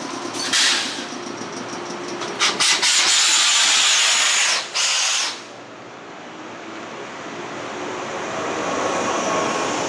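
JR West 113-series electric train departing: a short hiss of compressed air, then a louder one of about three seconds that cuts off suddenly, as the air brakes release. The train then pulls away, its running noise building steadily.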